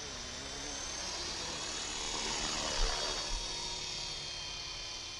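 WLToys V912 RC helicopter flying: the electric motor and rotor make a steady high whine with many tones, swelling louder and shifting in pitch around the middle as it passes close. Two short thumps near the middle.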